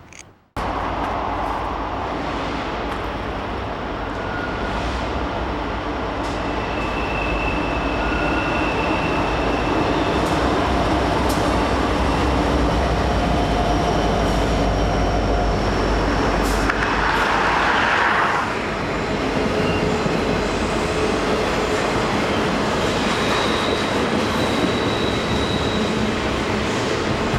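Canadian Pacific container train running by, a steady rumble of wheels on rail with thin high wheel squeals coming and going. The sound starts abruptly just after the beginning, and there is a brief louder rush of noise about two-thirds of the way through.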